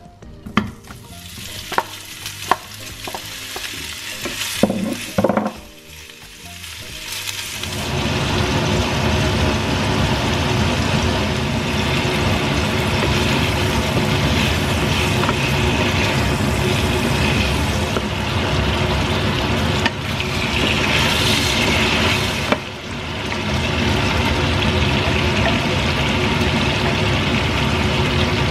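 Sliced kolbász sausage sizzling in oil in a nonstick frying pan while it is stirred with a wooden spatula. A few light knocks and handling sounds come first, and the steady loud sizzle sets in about eight seconds in.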